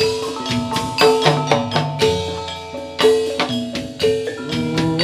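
Javanese gamelan music accompanying a jathilan dance: struck bronze metallophone notes ringing over drum strokes, with a strong accent about once a second.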